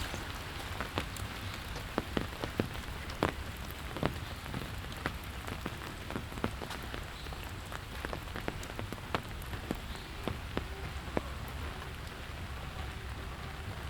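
Steady rain falling, an even hiss with many large drops tapping sharply and irregularly close by.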